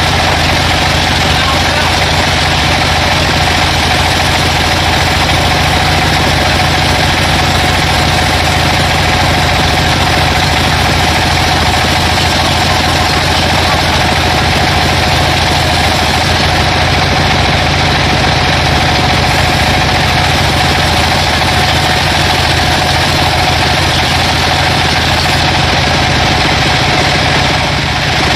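Sawmill machinery running steadily, a constant mechanical drone with a steady whine through it.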